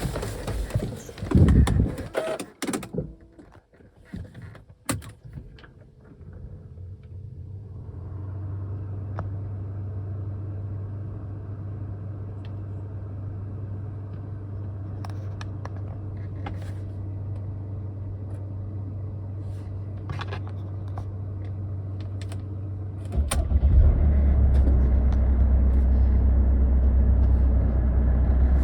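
Knocks and clatter for the first few seconds, then a car engine running steadily with a low hum; about 23 seconds in it becomes louder and deeper.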